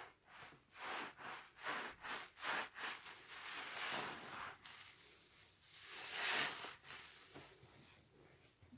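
Sponge soaked in washing machine liquid being squeezed: a run of short wet squelches of suds, then two longer foamy squeezes, the second the loudest, about six seconds in.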